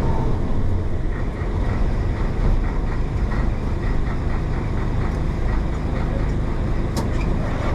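1966 Isuzu BXD30 bonnet bus's DA640 inline-six diesel running steadily as the bus drives along, with a brief sharp click about seven seconds in.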